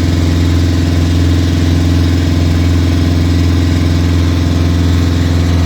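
Engine of a hired motor boat running steadily under way, a low, even drone.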